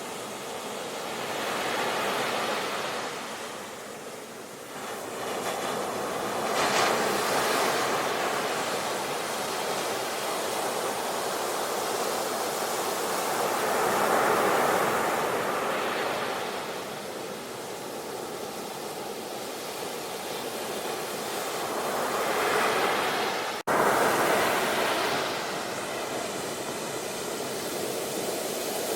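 Sea waves breaking and washing up the shore, a steady rush that swells and ebbs in slow surges every several seconds. About three-quarters of the way through, the sound cuts out for an instant and comes back with a surge.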